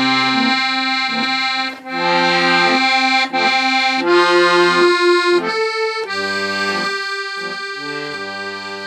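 Accordion played by a beginner: a slow tune of held melody notes over changing bass notes, growing quieter toward the end.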